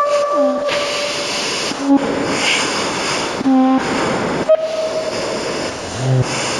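A quick string of short sound effects spliced back to back, each cut off abruptly: noisy rumbling with steady horn-like tones, train-like in character.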